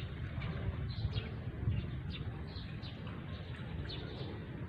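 Birds chirping, a string of short high chirps about two a second, over a low rumble of wind on the microphone.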